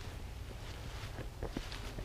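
Footsteps and light rustling through woodland ground cover, a scatter of small crunches and snaps over a low, steady rumble.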